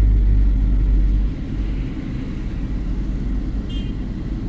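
Low steady rumble of a car idling, heard from inside the parked car, heavier for the first second or so. A short high chirp sounds once near the end.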